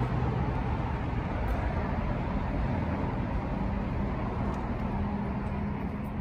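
Ford Mustang GT's 5.0-litre V8 running steadily, a continuous low rumble with a faint steady hum.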